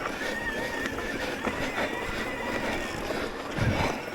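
Electric mountain bike ridden along a dirt trail: a steady rush of tyre and wind noise, with a thin, steady high whine for most of it and a low thump about three and a half seconds in.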